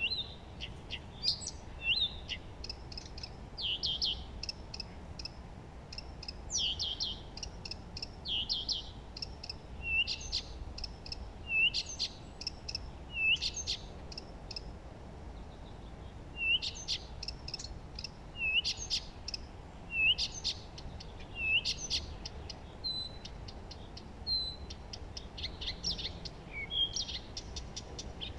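Songbirds singing and chirping: short, high notes, some with a sharp downward hook, repeated every second or two, mixed with quick fluttering trills, over a steady low background hiss.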